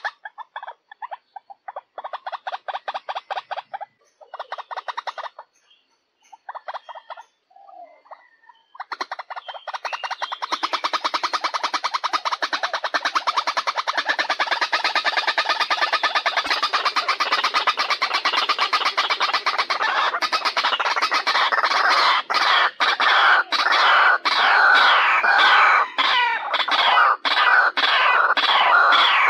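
White-breasted waterhen calling, a lure call for drawing the birds in: short bursts of rapid pulsed calls with pauses between them, then from about nine seconds a continuous, fast run of calls that grows louder and breaks into distinct repeated notes near the end.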